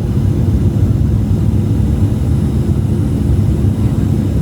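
Cabin noise inside a Boeing 737-700 airliner: a steady low rumble with a faint high whine above it.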